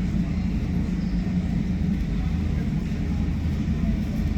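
Steady low rumble of jet airliner engines running at idle thrust during taxi.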